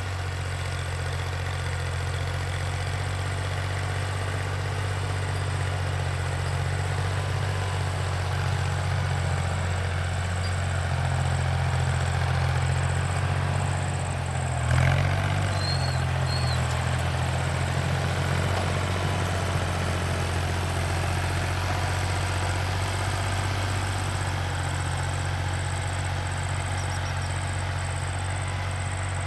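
Tractor engine running steadily with a low, even hum, with a brief surge in pitch and loudness about halfway through.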